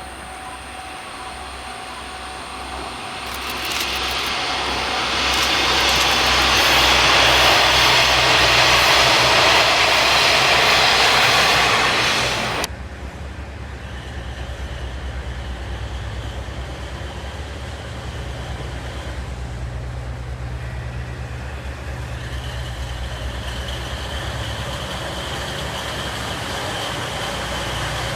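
JNR-era diesel railcar running loudly, its noise building over a few seconds and then cut off abruptly about twelve seconds in. After that comes a steadier, quieter low diesel engine rumble with a faint high whine.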